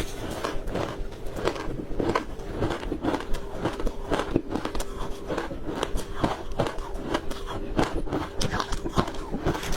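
Crunchy ice being bitten and chewed close to the microphone, with irregular crisp cracks and crunches several times a second.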